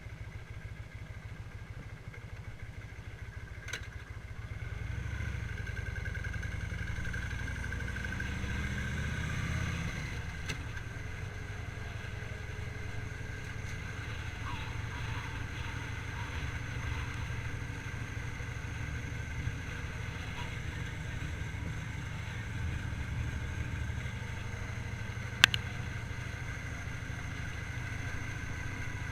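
Victory motorcycle's V-twin engine running under way on the road, picking up and getting louder about four and a half seconds in. There is a single sharp click near the end.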